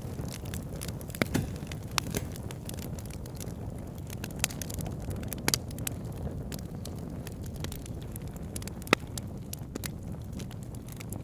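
Wood fire crackling in a fireplace: a steady low rumble of burning with irregular sharp pops and crackles, the loudest pop about nine seconds in.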